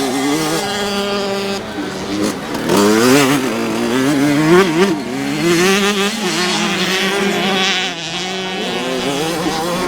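Several youth motocross bikes racing, their engines overlapping and revving up and down as the riders accelerate and shift, loudest a few seconds in.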